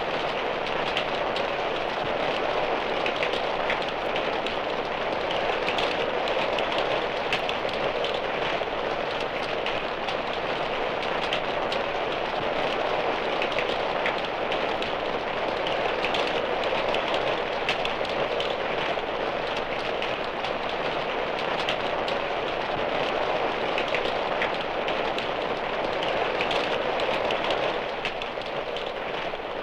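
Steady rain falling, a dense even patter with fine scattered drop ticks, from a 1960s sound-effects LP recording. It fades down near the end.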